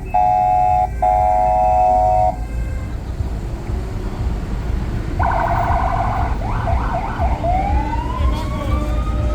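Truck air horns sounding in the parade: two long chord blasts in the first two seconds, a few short blasts around five seconds in, then a siren winding up, rising steadily in pitch, near the end, over the steady low rumble of truck engines.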